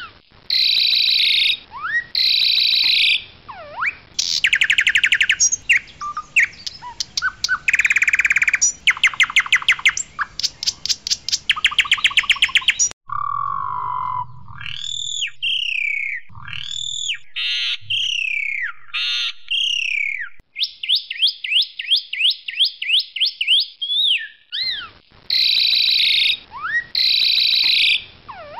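Asian pied starling singing a loud, varied song. It mixes clear whistles and gliding notes with fast runs of rapidly repeated rattling notes. The character changes abruptly about halfway through, where a lower whistle leads into a series of falling whistled phrases.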